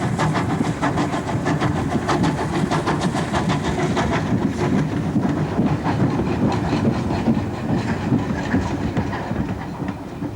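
Great Northern Stirling J52 saddle tank steam locomotive working, a steady rapid beat of about four strokes a second over hiss and clatter, easing a little near the end.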